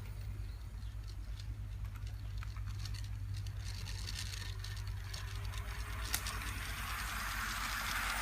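Electric model train running on a garden railway track: a steady low motor hum with a fast, even clatter from the wheels on the rails. A single click about six seconds in, then a hiss that grows over the last couple of seconds.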